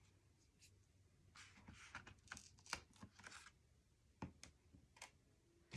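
Faint rustling of cardstock being handled, followed by a couple of light taps.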